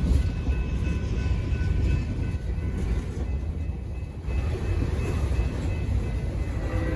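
Train rolling past: a steady low rumble of wheels on rail, with faint steady high-pitched tones over it and a brief drop in level about four seconds in.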